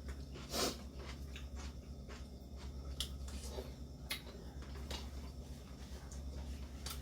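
Eating sounds at a ramen meal: a short noisy slurp-like burst about half a second in, then a few scattered sharp clicks, over a steady low hum.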